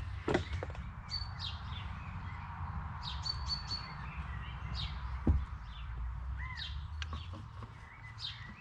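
Small birds chirping and calling repeatedly over a low steady rumble, with a sharp knock about five seconds in and a softer one near the start.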